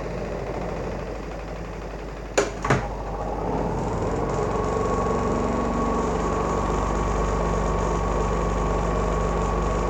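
Twin-tub washing machine spin dryer running on its newly fitted motor: a steady hum, two sharp clicks about two and a half seconds in, then a whine that rises and levels off as the spinner gets up to speed.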